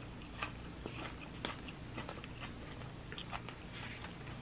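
Someone chewing leafy salad greens, a run of short irregular crunches and wet mouth clicks.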